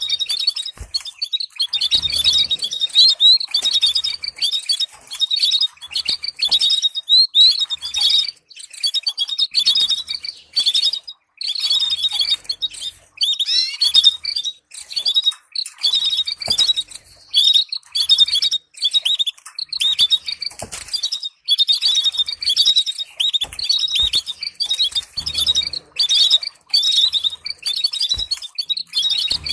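Canary singing a continuous song of rapid trills and chirps, phrase after phrase with only brief pauses.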